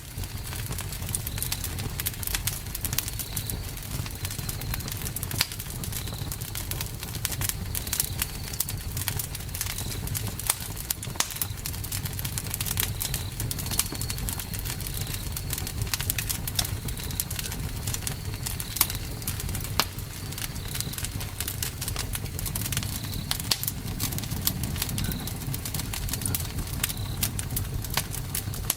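Campfire burning, wood crackling and popping steadily over a low rumble of the flames. A faint high chirp repeats about once a second behind it.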